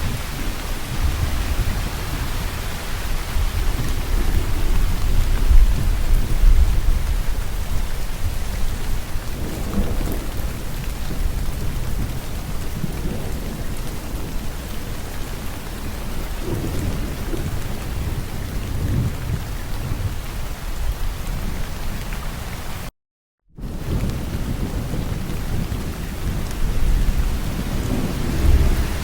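Steady heavy rain with rolling thunder rumbling underneath, the rumble loudest in the first several seconds and swelling again near the end. The sound cuts out to silence for about half a second some two-thirds of the way through.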